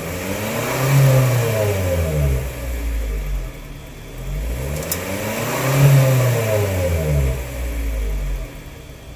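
Toyota Town Ace van's 1.5-litre naturally aspirated four-cylinder revved twice through an aftermarket low-volume single centre muffler with a stainless turned-down tip. Each rev climbs for about a second and falls back, the two about five seconds apart, and the engine then settles to a quieter idle near the end.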